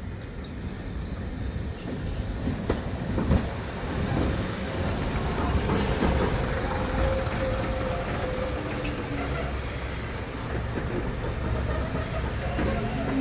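A train running along the line with a steady rumble, its wheels squealing on the rails in short high tones. There is a brief hiss about six seconds in.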